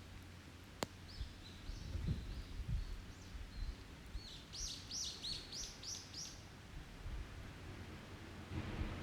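A songbird sings a quick run of about eight sweeping whistled notes in the middle, after a few fainter chirps. Near the start the wood campfire gives a single sharp pop, over a low steady rumble of background noise.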